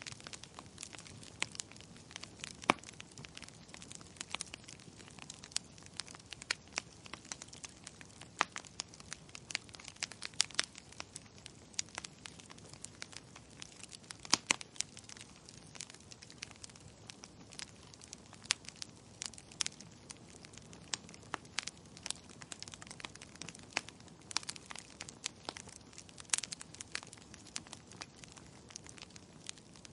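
Wood fire crackling in a fireplace: irregular sharp pops and snaps, a few of them louder, over a steady soft hiss.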